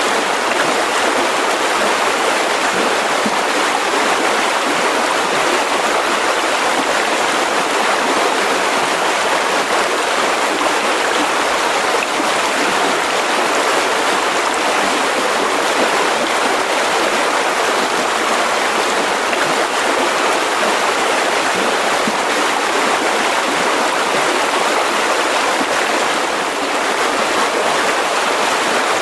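A mountain river rushing over rocks: a steady, even water noise that doesn't change.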